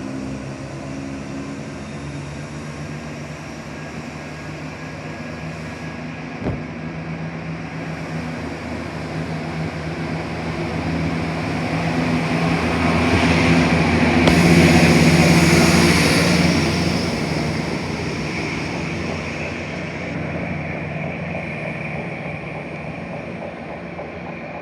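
Diesel train passing through the station: its engine noise swells to a peak about fifteen seconds in, then fades away. A single sharp click is heard about six seconds in.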